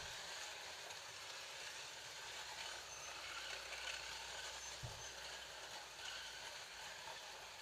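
Several Scalextric slot cars racing together: small electric motors whining steadily, with the cars clattering along the track.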